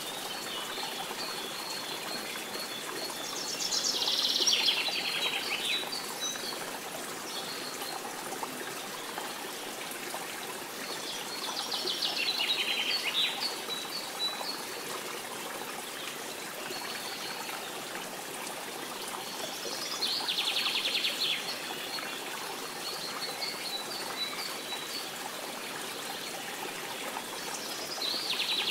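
Birdsong over a steady background hiss. About every eight seconds a buzzy, rattling call sweeps through, four times in all, with thin high chirps in between.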